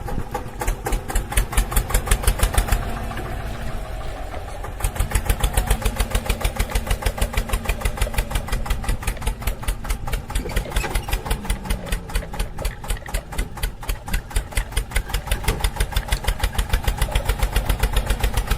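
Small engine of a DIY mini tractor running with a steady, rapid chugging beat. It drops quieter for a moment about three seconds in, then picks up louder again.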